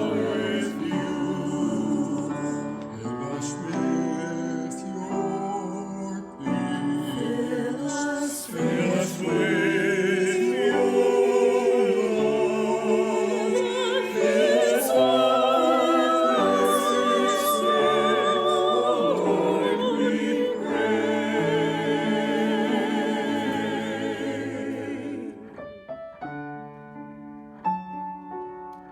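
Singing with vibrato over piano accompaniment; the voices stop about 25 seconds in and the piano carries on alone.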